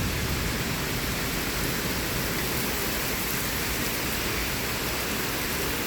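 Heavy thunderstorm rain falling steadily, with gusty wind.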